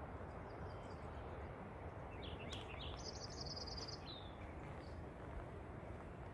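A small songbird sings once: a few high chirps, then a fast trill about a second long ending in a short falling note, over a steady low rushing noise.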